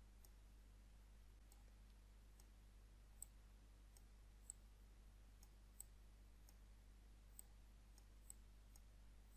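Faint computer mouse clicks, a handful of short single clicks spaced a second or so apart, over a low steady electrical hum.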